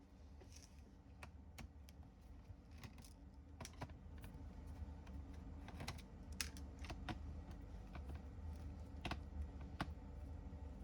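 Hands clicking and tapping on a laptop: scattered, irregular light clicks over a low steady hum.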